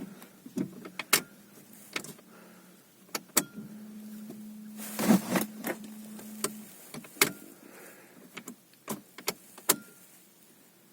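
Clicks and knocks from a small car's controls and fittings being handled. Twice a low electric hum runs for about two seconds, and there is a short rustle-like burst near the middle. No engine is running.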